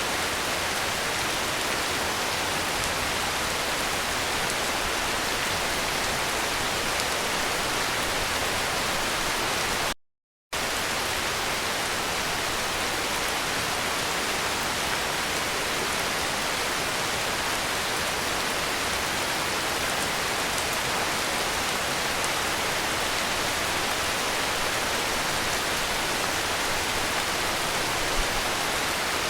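Heavy rain falling as a steady, even hiss. About ten seconds in the sound cuts out completely for half a second, then resumes.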